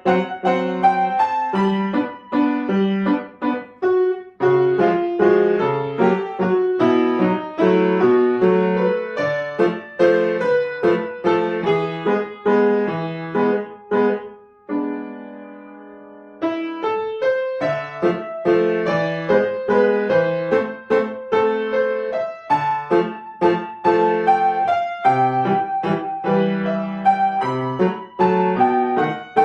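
Solo piano playing a piece with a steady run of notes. Around the middle the player holds a chord, lets it ring and fade for about two seconds, then goes on playing.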